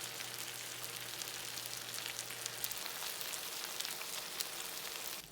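Spicy beef intestines and soondae sizzling and crackling as they fry in a pan, a steady hiss full of small pops. The sizzle drops suddenly near the end.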